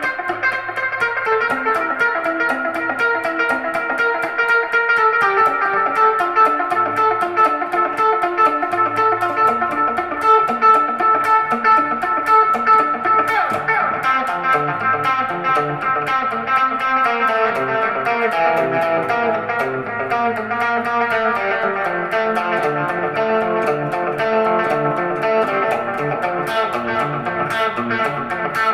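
Electric guitar playing a steady run of quickly picked notes through a Donner Yellow Fall echo pedal, the notes overlapping with their echo repeats.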